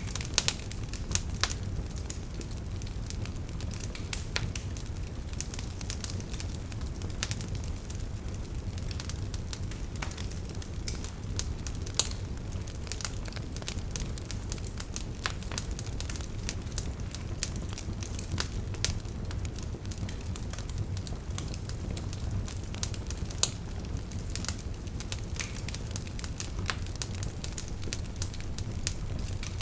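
Wood campfire burning: frequent sharp crackles and pops, with a few louder snaps, over a steady low rumble of the flames.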